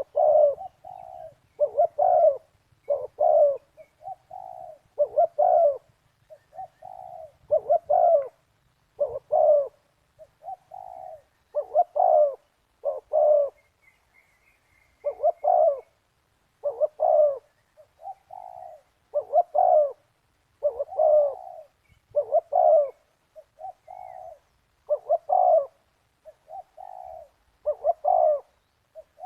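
Spotted dove cooing over and over in short, repeated phrases, one every second or two.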